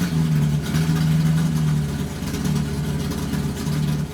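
1968 Datsun 520 pickup's J13 four-cylinder engine idling steadily, its low hum wavering slightly in pitch.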